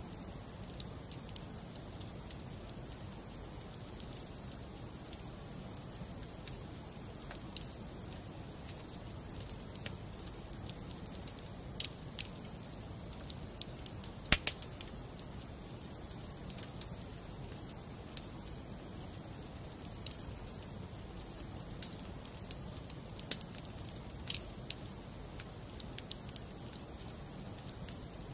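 Wood fire burning in a fireplace: a steady low hiss under irregular crackles and sharp pops of burning logs, the loudest pop about halfway through.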